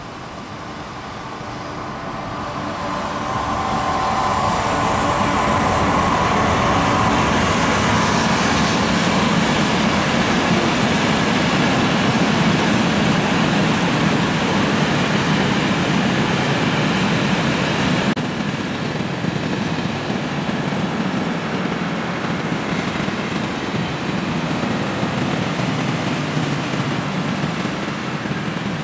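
A class 37500 electric freight locomotive approaches and passes with a whining tone. It is followed by a long string of flat van-carrier wagons rolling by with a steady, loud rolling noise from wheels on rail.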